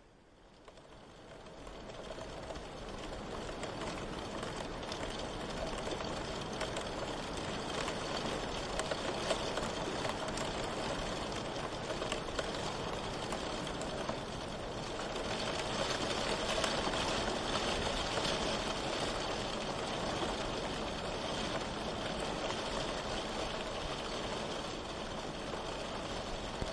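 Steady rain, a dense even hiss, fading in from near silence over the first couple of seconds.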